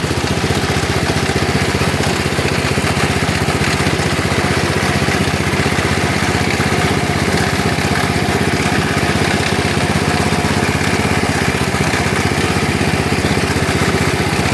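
Lawn tractor's small engine running steadily, with the added noise of its cooling fan, which has broken loose inside and is rubbing on the plastic as the engine spins.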